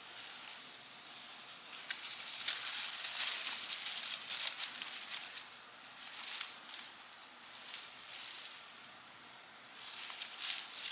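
Sweet potato vines, leaves and soil rustling and crackling in irregular bursts as gloved hands push through the plants.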